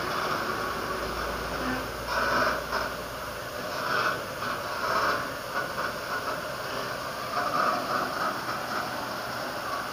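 A truck running as it manoeuvres, heard under a steady hiss of noise that swells briefly every second or two.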